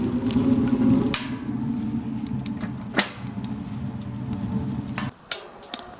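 Wood fire crackling in a homemade steel stove-fireplace, sharp pops scattered through, with the loudest about three seconds in, over a steady low hum that cuts off suddenly about five seconds in.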